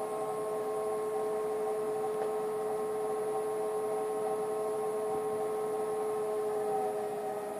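Marand/CSIRO in-wheel hub motor of a solar car spinning steadily: an electric whine made of several steady tones, dipping slightly in pitch near the end.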